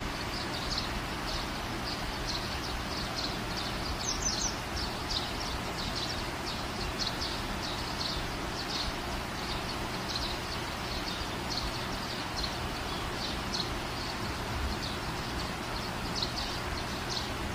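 Small birds chirping over and over, about two or three high chirps a second, with a brief louder cluster about four seconds in, over a steady background hiss and low hum.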